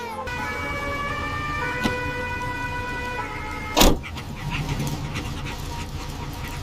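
Steady rumble of road traffic, with held high tones in the first half and one loud, sharp bang a little before the four-second mark.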